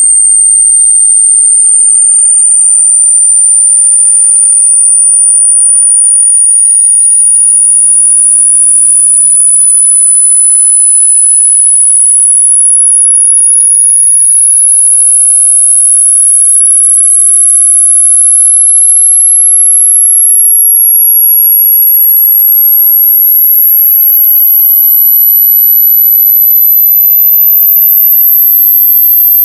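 A loud, piercing, high-pitched electronic sine tone, held continuously and rising slowly and evenly in pitch.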